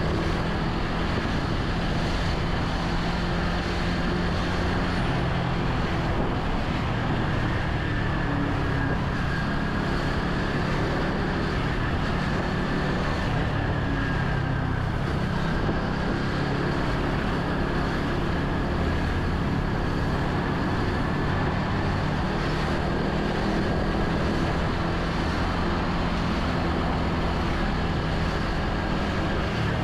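Motorcycle engine running steadily on the move, with wind rush and road noise from surrounding traffic.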